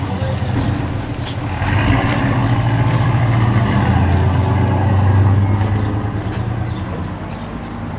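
A motor vehicle's engine runs steadily, growing louder about a second and a half in and easing off again over the last couple of seconds.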